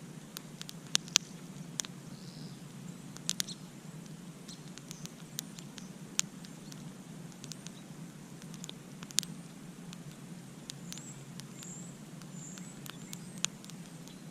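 Campfire wood burning and crackling, with irregular sharp pops, the loudest about a second in and again near the middle, over a steady low rumble of the flames. A few faint short high chirps come in later on.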